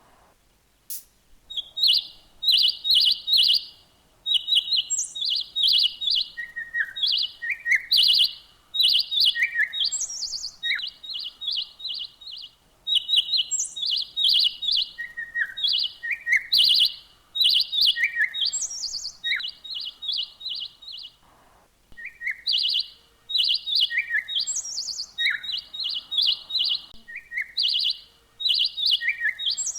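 Songbirds chirping: quick runs of high, rapid chirps, answered by lower falling notes and an occasional higher call, with short pauses now and then.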